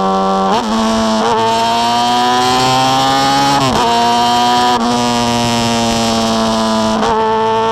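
Honda Hornet's inline-four engine through a 4-into-1 aftermarket exhaust, pulling under acceleration: its pitch climbs steadily and then drops abruptly several times at gear changes.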